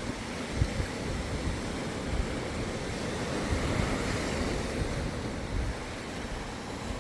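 Surf washing up on a sandy beach, one wave swelling a little past the middle, with wind buffeting the microphone.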